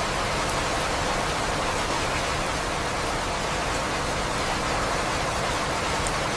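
Steady rain, an even hiss with no let-up, with a few faint drop ticks here and there.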